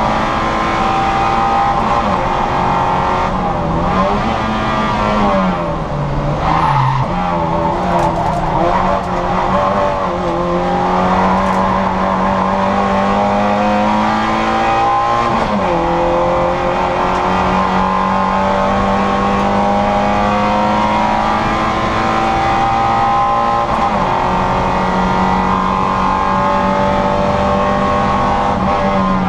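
Citroën Saxo VTR's four-cylinder engine running hard on track, its note mostly held high and steady. The pitch dips and climbs back several times: a longer drop a few seconds in, and shorter ones about halfway and near the end.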